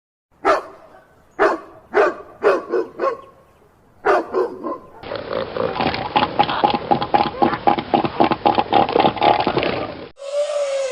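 A dog barking in short, sharp, separate barks: a single bark, then several in quick succession, then a couple more. After that comes a separate recording of a dense, rapid run of animal calls lasting about five seconds, and a new long call begins near the end.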